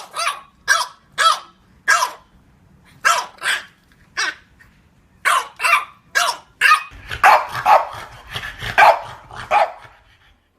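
French bulldog barking: short barks in bunches of two to four with brief pauses between, turning into a faster, denser run of barks over the last three seconds.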